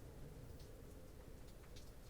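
Faint rain on a roof: scattered drops ticking irregularly, a few a second, over a low steady rumble.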